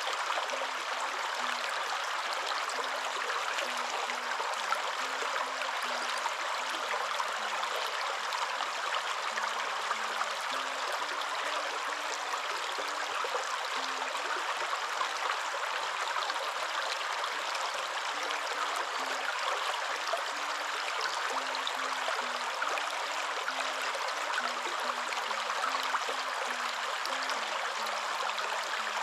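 Waterfall: water falling and splashing in a steady, continuous rush with no breaks or changes.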